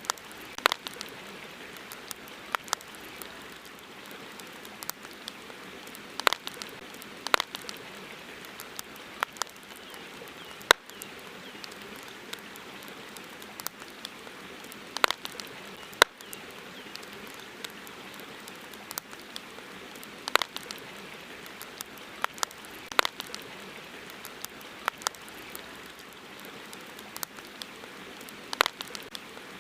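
Campfire crackling: irregular sharp pops and snaps, often a second or two apart, over a steady soft hiss.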